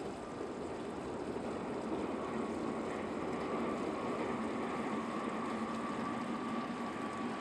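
Heavy electric machinery at a railcar depot running steadily, a dense noisy hum with a thin steady whine above it.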